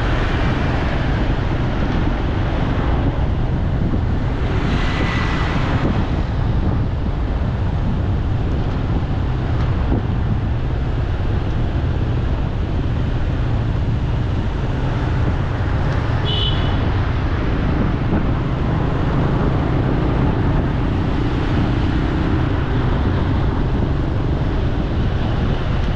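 Steady street traffic noise with wind rumbling on the microphone, and a brief high tone about sixteen seconds in.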